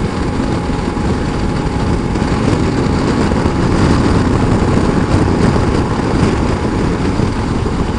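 Steady wind and engine noise from a motorcycle cruising on the highway, with the wind rushing over the microphone.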